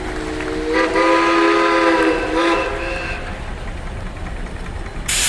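Steam traction engine whistle blowing one long, chord-like blast that lasts about three seconds. Near the end a loud, steady hiss of steam starts suddenly.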